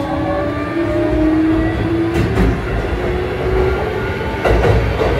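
Kintetsu 7000 series train running on its Mitsubishi GTO-VVVF inverter drive: a whine from the traction drive that rises slowly in pitch as the train gathers speed, over a low rumble of wheels on rail. Two sharp clacks cut in, about two seconds in and near the end.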